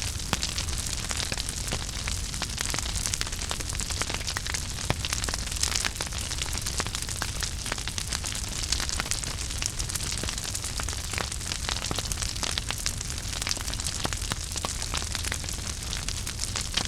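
Wood fire burning in a fireplace: a steady hiss and low rumble with frequent irregular crackles and pops.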